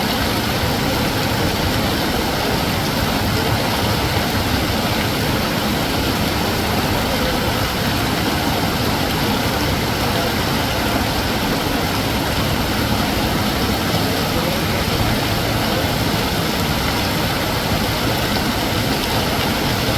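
Heavy rain and running storm water making a steady, even rushing noise.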